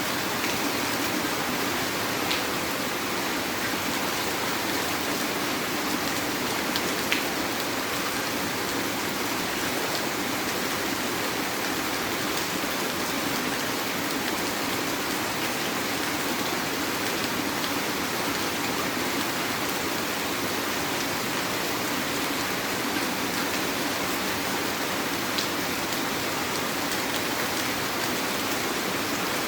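Heavy rain falling steadily, an even hiss, with a few louder drops ticking now and then.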